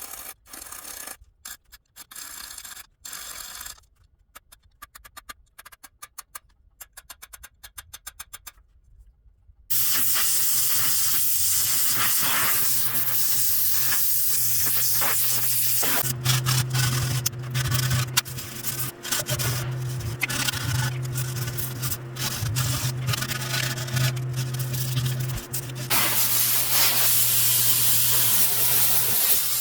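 Short scraping strokes on a hard surface, then from about ten seconds in a steady spraying hiss over a low motor hum.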